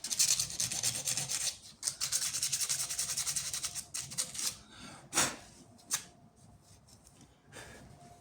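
Rapid rubbing or scraping strokes, like hand sanding or filing, for about four and a half seconds, then two sharp clicks.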